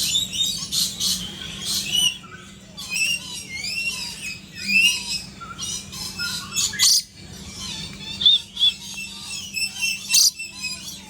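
Many birds calling at once: a busy chorus of chirps, squawks, and rising and falling whistled calls, with sharp harsh calls scattered throughout.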